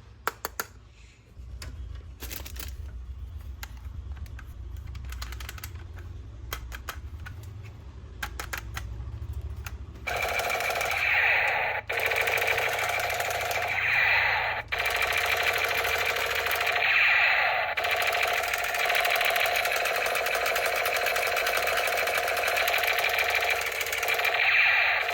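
Scattered clicks of plastic parts being handled, then, about ten seconds in, a toy gun's electronic machine-gun sound effect starts: a loud, continuous rapid rattle with a buzzy tone, swelling every few seconds.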